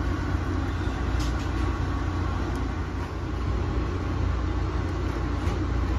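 Steady low rumble of a moving passenger train heard inside an Amtrak Amfleet cafe car, with a few faint clicks over it.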